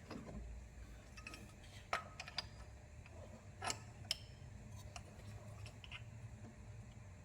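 Faint, scattered light metallic clicks and taps, about half a dozen, from a timing tool and engine parts being handled and fitted into place.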